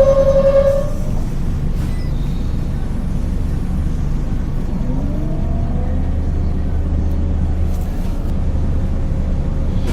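Scania DC9 9-litre six-cylinder diesel bus engine running, heard on board, with a steady tone that stops about a second in. About five seconds in, the engine's note rises and its low rumble strengthens.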